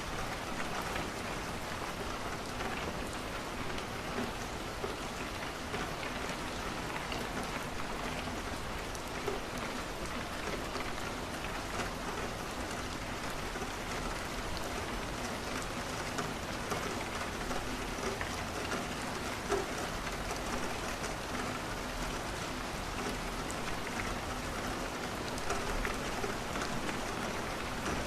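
Steady rain falling, an even hiss sprinkled with many small scattered ticks.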